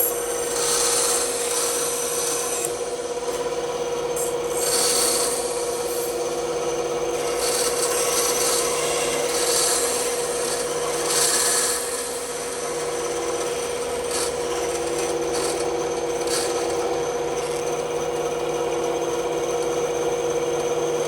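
Bandsaw running with a steady hum while its blade cuts through wood, the cutting noise swelling and easing in irregular bursts as the piece is fed and turned.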